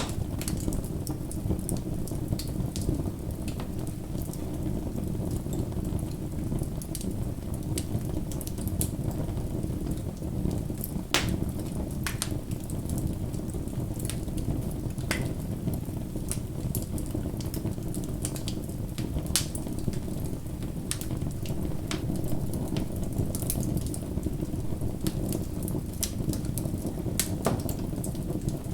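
Bonfire burning with a steady low rumble, crackling with scattered sharp pops and snaps, a few of them louder.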